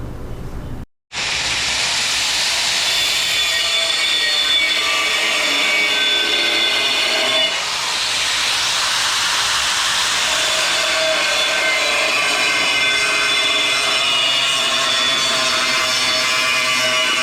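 A power tool cutting a newly welded aluminium skeg plate to shape on a boat outdrive. It starts about a second in as a steady hiss with a shifting high whine, dips briefly near the middle, and then runs on.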